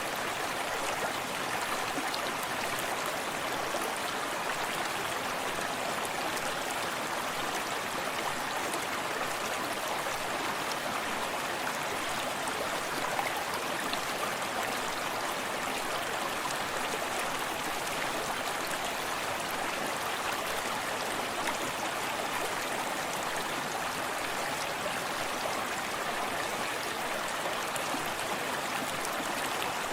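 Forest stream running steadily, water splashing and trickling over stones with an even rushing sound.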